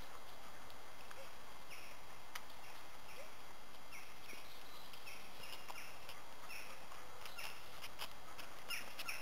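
A bird chirping over and over in short falling notes, more often toward the end, over a steady outdoor hiss, with a few faint clicks.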